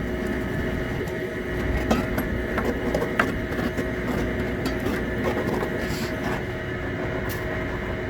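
Handheld gas torch flame running steadily, with scattered sharp clicks and crackles from the burning.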